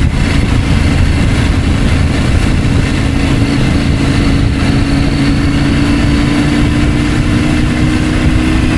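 Adventure motorcycle engine running steadily while riding, over a broad rush of wind noise; the engine's pitch creeps up slightly in the second half.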